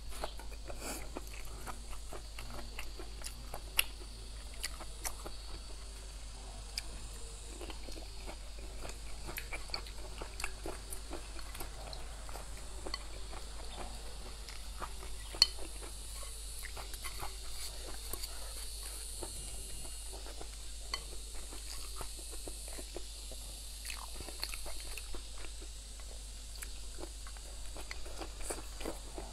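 A person chewing and biting food close to the microphone: crisp chilli and green bean and rice, with many small crunches and clicks of chopsticks against the plate. Two sharper clicks stand out, about four seconds in and about fifteen seconds in.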